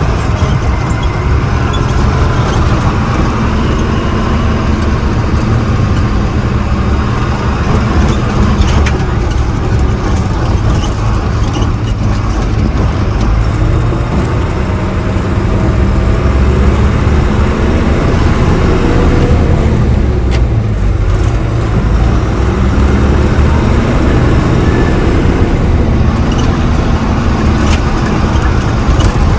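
Truck engine running on the move with road rumble, its engine note drifting up and down now and then.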